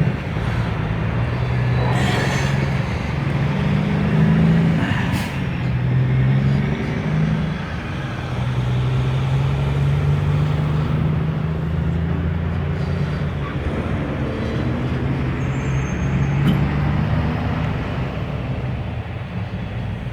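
EMD SD40-2 diesel-electric locomotives running with a steady low engine drone whose pitch shifts slightly, with a few short knocks.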